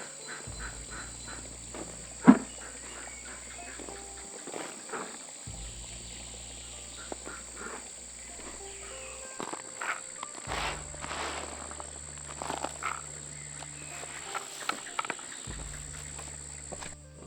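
Wild frogs calling after rain, with a rapid run of about four pulses a second early on and scattered croaks later, over a steady high-pitched insect drone. A single sharp knock a little over two seconds in is the loudest sound.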